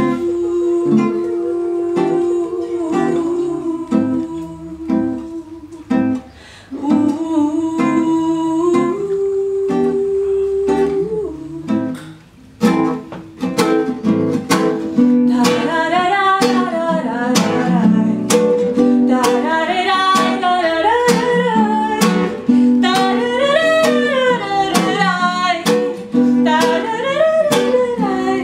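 Live acoustic band music: a strummed acoustic guitar with wordless singing over it. It drops away briefly about twelve seconds in, then comes back with sharper strums and a wavering melody line.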